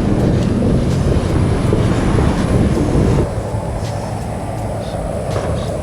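A loud, ragged low rumble that drops off sharply about three seconds in, then carries on weaker.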